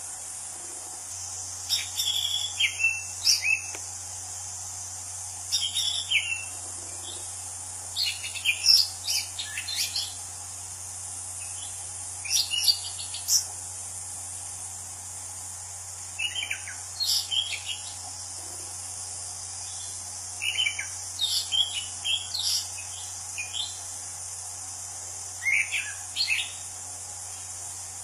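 Anis Cendana thrush singing: short, varied phrases of quick warbled and slurred whistled notes, one burst every few seconds, about seven phrases in all.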